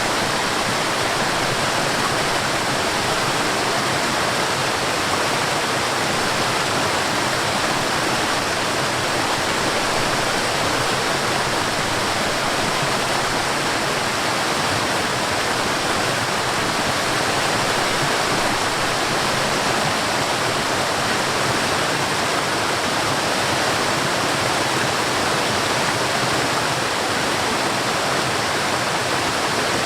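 Waterfall rushing, a steady, unbroken wash of falling water with no changes.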